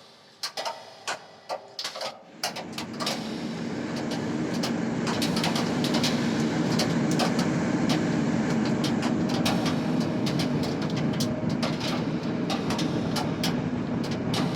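Rain: scattered separate drops at first, then a steady downpour sets in about two seconds in and keeps going, with individual drops still clicking sharply on top.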